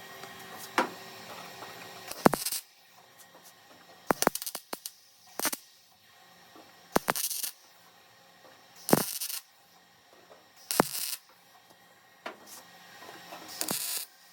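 A welder laying short tack welds on a car's steel quarter panel: brief crackling bursts, each about half a second long, about every two seconds.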